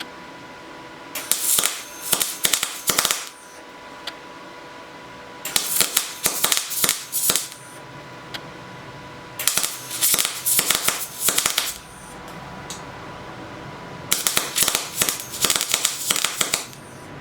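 MIG welder arc crackling in four bursts of about two seconds each, with short pauses between, as weld beads are laid onto a steel shaft to build it up.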